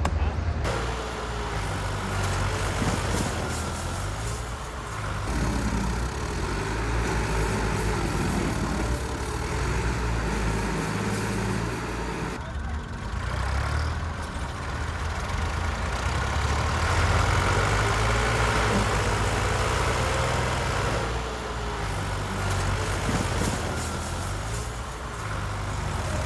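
A heavy engine running continuously, its pitch rising and falling as it works, with an abrupt jump in the sound about twelve seconds in.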